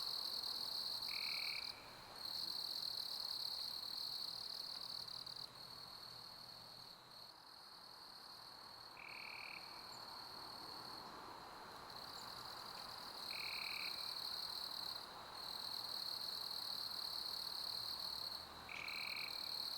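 Crickets chirping in a continuous high trill that thins out for several seconds mid-way and breaks off briefly a few times, over a soft steady hiss. A short lower note repeats about every four to five seconds.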